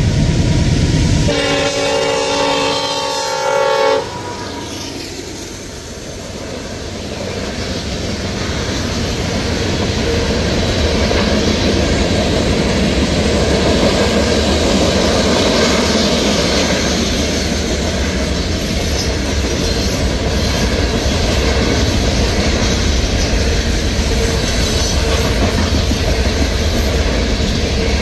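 A freight locomotive's horn sounds one steady chord for a few seconds and cuts off sharply. Then a long string of steel hopper cars rolls past, a steady rumble and clatter of wheels on rail that builds and holds.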